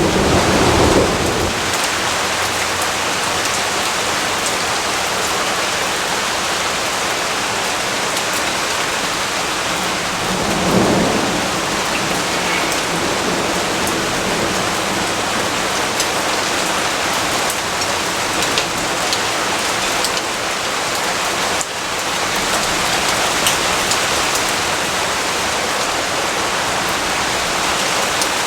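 Steady, heavy rainfall hissing, with low rumbles of thunder twice: as it begins and again about eleven seconds in.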